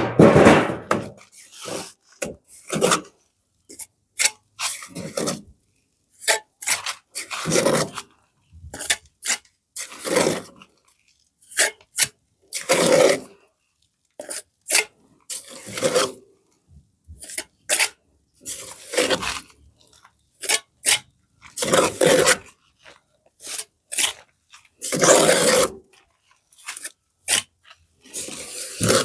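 Repeated scraping and rasping strokes at an irregular pace, roughly one every one to two seconds, as of something being scraped or rubbed by hand.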